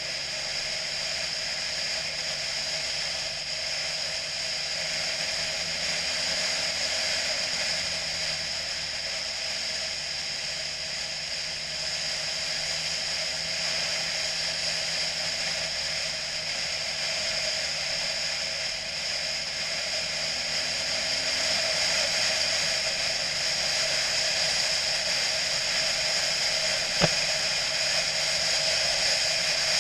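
A motorcycle being ridden: steady rushing wind and road noise over a faint engine note that rises and falls slowly. A single sharp click about 27 seconds in.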